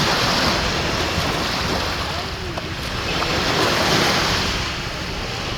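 Sea surf washing onto a beach, with wind buffeting the microphone. The waves swell near the start and again about four seconds in.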